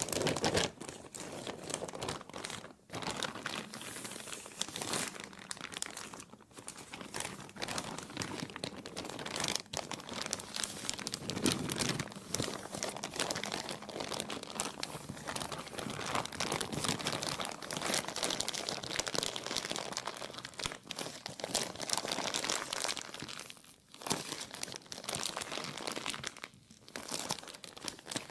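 Plastic being crinkled and crumpled continuously, a dense crackling with a few brief pauses.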